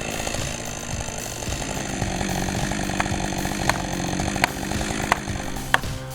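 Chainsaw engine running steadily. From about halfway through come five sharp clicks, roughly two-thirds of a second apart.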